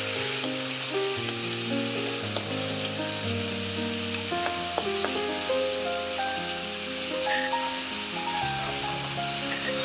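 Khmer kroeung spice paste frying in hot soybean oil in a wok: steady sizzling while a metal spatula stirs it, with a few scraping knocks about four to five seconds in. Background music plays under it.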